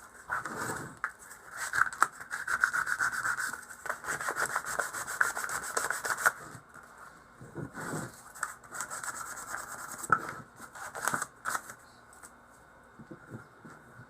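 Hand sanding with a piece of sandpaper: quick back-and-forth scraping strokes in two spells with a short pause between, smoothing the edges of a rudder cable outlet forming die. A few light knocks near the end.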